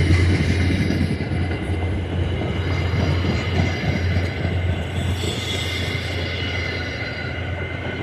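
MBTA commuter train rolling into the station behind a diesel locomotive. There is a steady low engine hum under wheel-on-rail noise, with faint high-pitched wheel squeal, and the sound eases off slowly.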